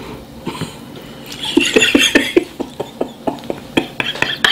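Crispy fried chicken being crunched and chewed: a quick run of crisp crunches, about four a second, starting about a second and a half in.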